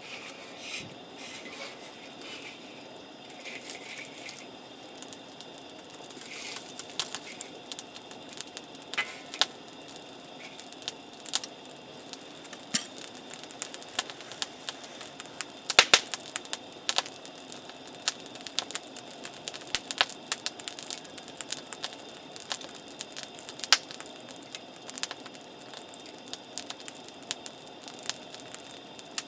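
Wood campfire crackling, with irregular sharp pops and snaps that grow frequent from about six seconds in.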